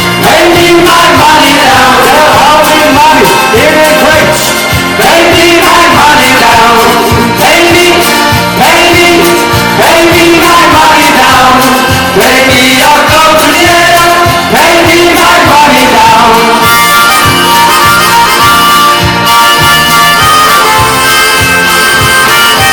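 Live folk band music: a lively instrumental passage with a melody line carried over a steady bass beat, the melody moving higher about two-thirds of the way through.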